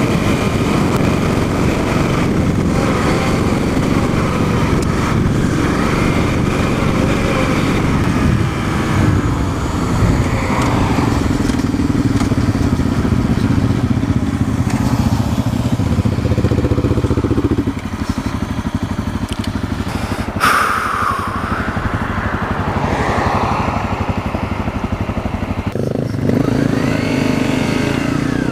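Dual-sport motorcycle engine running on the move, its note rising and falling with the throttle and gear changes. The engine eases off about two-thirds of the way through, then picks up again with a rising note near the end.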